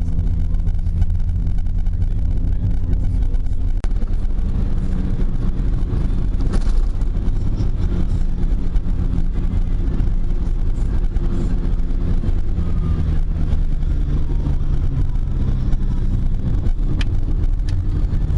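Car engine running steadily under a low road rumble while driving; the engine's pitch shifts a few times.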